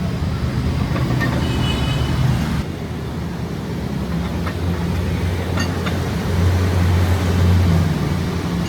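Steady low mechanical rumble with a hum whose pitch shifts, and a few light clicks; the sound changes abruptly about two and a half seconds in.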